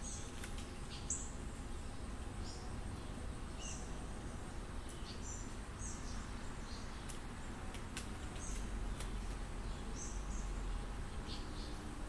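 Short, high bird chirps scattered throughout, over a low steady rumble, with a few sharp ticks.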